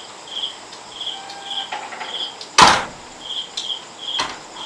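An insect, likely a cricket, chirping steadily at about two short high chirps a second. A loud sharp knock comes about two and a half seconds in, and a lighter one about four seconds in.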